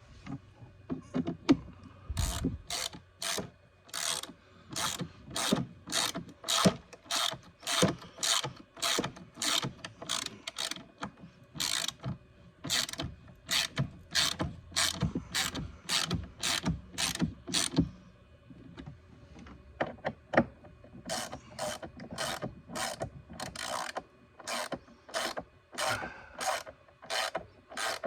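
Hand ratchet wrench being worked back and forth, clicking in short, even strokes about twice a second, with a pause of a few seconds about two-thirds of the way through.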